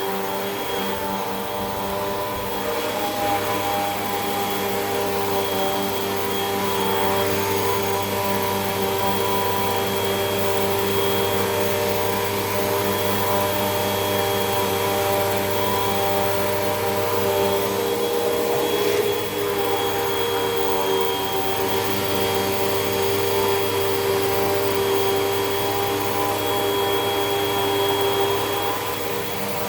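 Hoover WindTunnel 2 Rewind upright vacuum cleaner running steadily, its motor giving a constant hum and whine, with a brief wobble in pitch about two-thirds of the way through.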